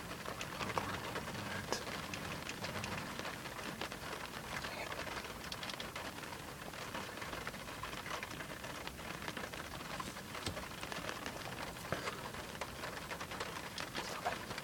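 Rain falling on a car, the drops tapping on the roof and glass in many irregular sharp ticks over a steady hiss, heard from inside the closed cabin.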